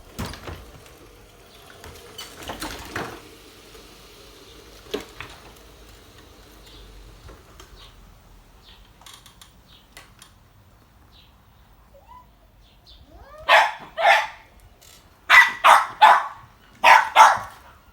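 A dog barking: about seven sharp barks in quick runs of two or three over the last few seconds. Before them there are only faint rustling and a few light knocks.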